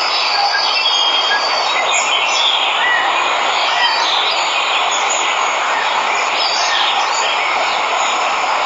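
Waterfall rushing steadily, with birds chirping over it now and then.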